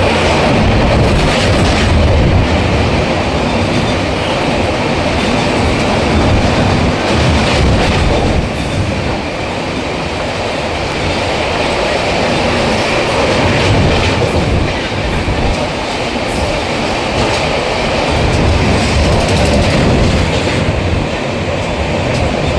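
Passenger train running on the rails, its coaches rumbling along with a loud, steady clickety-clack of wheels over rail joints.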